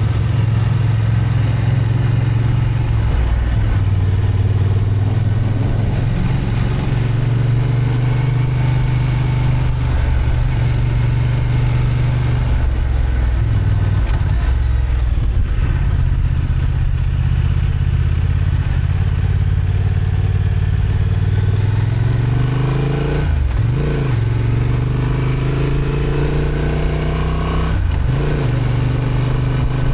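Honda XL750 Transalp's 755 cc parallel-twin engine running under load while riding, its note rising and falling with the throttle. Twice near the end the note breaks off briefly and climbs again.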